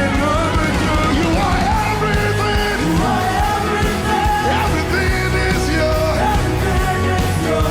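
Live church worship music: a band holding sustained chords over a steady bass, with a voice singing long, gliding lines above it.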